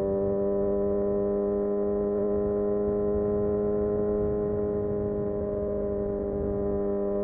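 Kawasaki Ninja ZX-6R's inline-four engine running at a steady, held speed, its exhaust note staying at one nearly constant pitch.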